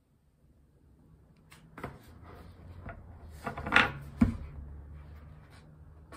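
Pages of a book being handled and turned: paper rustling and light clicks, loudest about three and a half seconds in, with a dull thump just after.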